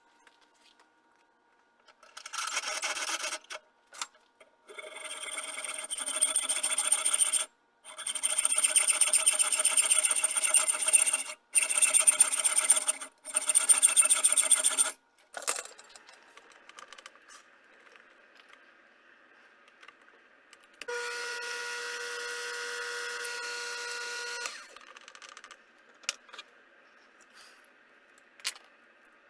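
A small electric power tool runs in several bursts of a few seconds each with short stops between, then runs on its own for about three and a half seconds with a steadier whine, with light clicks and taps between the runs.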